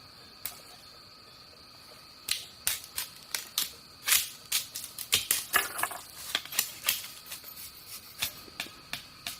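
A run of irregular sharp clicks and snaps, several a second, starting about two seconds in, over a faint steady high-pitched tone.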